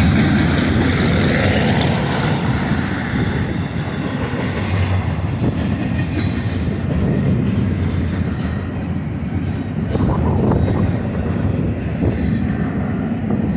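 Freight train rolling past: a steady rumble of wheels on rail, with a brief clatter about ten seconds in.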